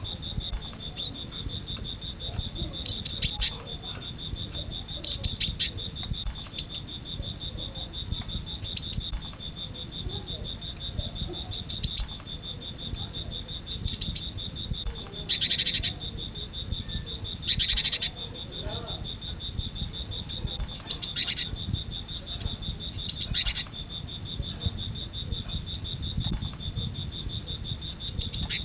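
Cinereous tit (gelatik batu) calling: short, sharp, high notes in quick little groups every second or two, with two harsh rasping calls about halfway through. A steady high insect trill drones underneath.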